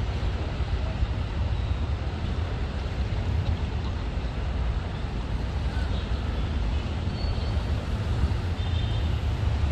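Steady noise of road traffic with a low rumble.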